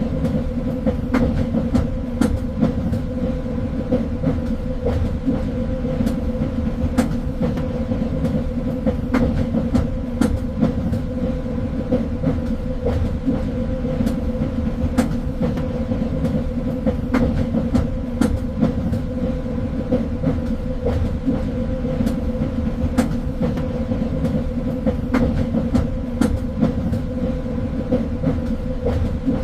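Train running on the rails: a steady low rumble with a constant hum, and frequent irregular clicks and knocks from the wheels on the track.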